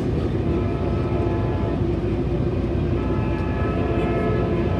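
Metrolink commuter train in motion, heard from inside a passenger car: a steady rumble of wheels on the rails, with faint high steady tones joining about a second in.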